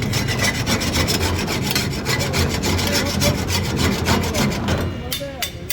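Metal spatula scraping rapidly around a karahi pan as mutton karahi is stir-cooked: a fast, even run of scrapes, many a second, over a low hum.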